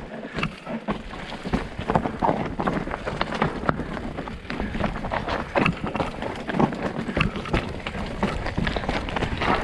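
Footsteps of hikers on a rocky mountain trail: irregular, uneven steps, with wind buffeting the microphone.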